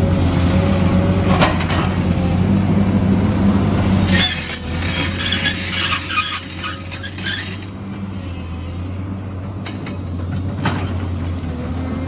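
Excavator's diesel engine running steadily with a wavering whine, a high squealing, hissing stretch of about three seconds near the middle, and a few sharp metal clanks near the end.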